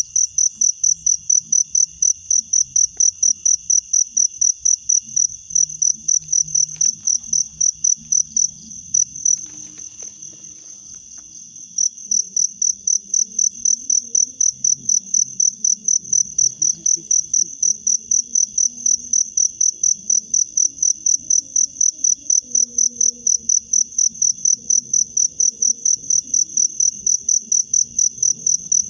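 An insect chirping steadily at a high pitch, about three pulses a second, breaking off for a couple of seconds about a third of the way in before resuming.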